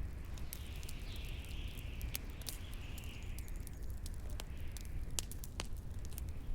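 Bonfire crackling with scattered sharp pops, over a steady low rumble of wind and a wavering high howl.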